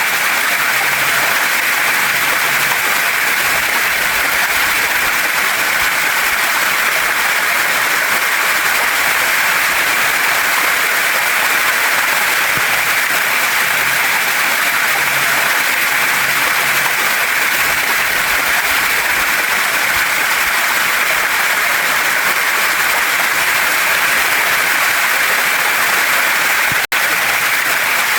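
Steady rush of a waterfall and stream water pouring over rocks. The sound is even and unbroken, apart from a momentary dropout near the end.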